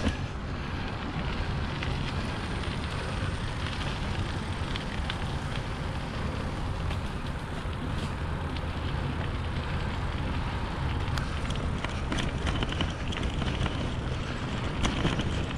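Wind buffeting the microphone of a camera riding on a moving bicycle, over steady tyre and rolling noise. Scattered small clicks and rattles come from the loaded bike.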